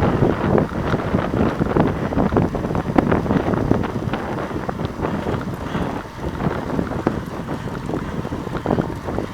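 Wind buffeting the microphone of a camera carried on a moving bicycle: a steady rushing noise with uneven gusts.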